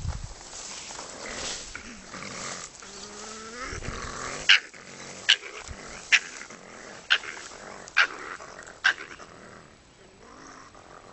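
Raccoon dogs quarrelling: rough growling and a short rising whine, then six short, sharp cries, about one a second, before the squabble quietens near the end.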